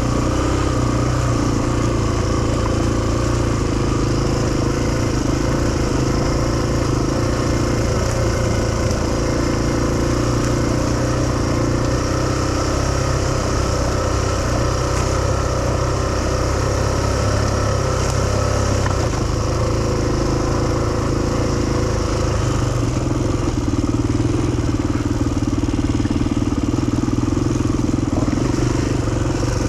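Motorcycle engine running steadily for the whole stretch, its pitch holding nearly constant.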